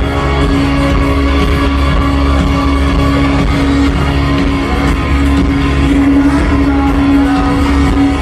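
Live rock band playing at loud, steady volume, with a heavy bass and a long held note over many sustained instrument tones.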